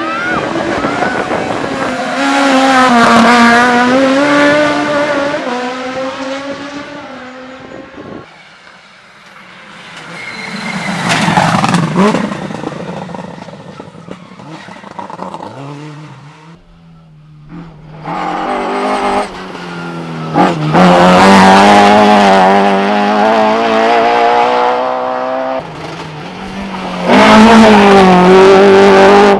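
Competition car engines revving hard as cars are driven past at speed, several passes one after another, the engine pitch climbing and dropping as the throttle is worked.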